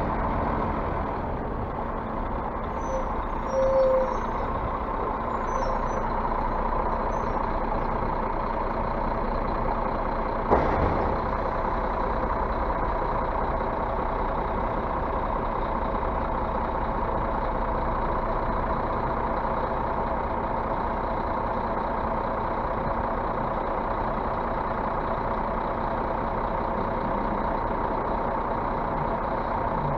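Scania bus engine running steadily, with a short beep about four seconds in and a single sharp knock about ten seconds in.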